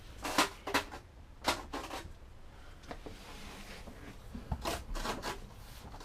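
About six short scraping strokes, unevenly spaced with quiet gaps between them: several in the first two seconds, then more near the end.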